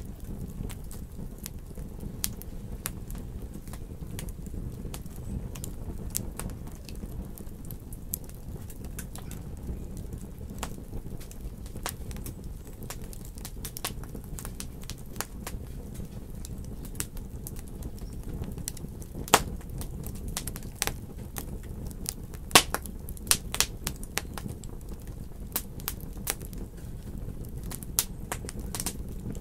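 Wood fire burning in a fireplace: a steady low rumble with scattered crackles and pops, the loudest pops about two thirds of the way through, followed by a quick run of snaps.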